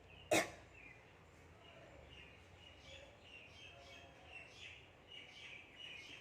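A single sharp snap, like a slap or clap, about a third of a second in, then small birds chirping faintly and repeatedly, the short chirps growing busier toward the end.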